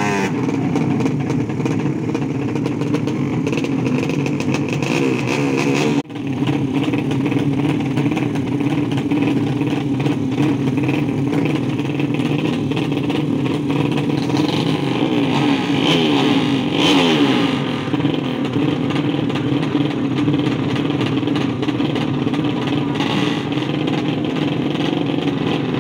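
Drag-race motorcycle engine running continuously, with some rising and falling revs between about 14 and 18 seconds. There is a brief break about six seconds in.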